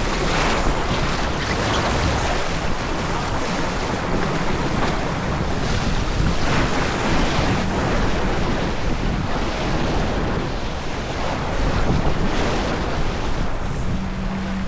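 Wind buffeting the microphone over water rushing along a sailboat's hull, swelling every few seconds.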